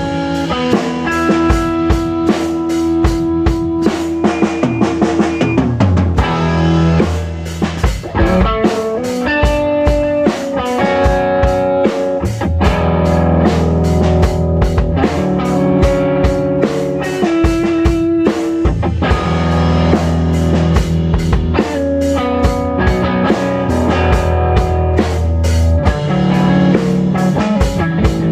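Live rock band jamming, recorded raw: a drum kit keeps a steady beat under electric guitar and sustained low bass notes. The playing thins out briefly about seven seconds in, then picks up again.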